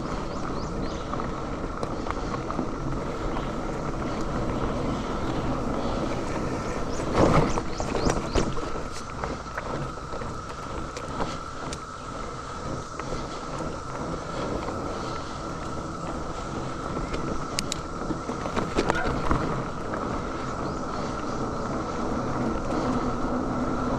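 A cicada chorus holds one steady high drone, over the rattle and rolling noise of a mountain bike on a dirt trail. There are a few sharp knocks about seven seconds in and again near nineteen seconds.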